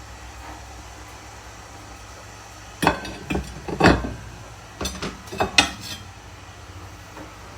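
Ceramic dinner plates clinking and clattering as they are handled, in two bursts of several sharp knocks about two seconds apart.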